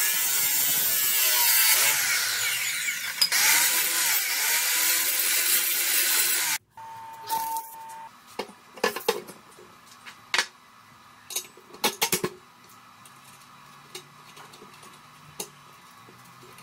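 Power tool running with a harsh, hissy noise that cuts off abruptly about six and a half seconds in. After a brief steady beep-like tone, there are scattered light knocks and clicks.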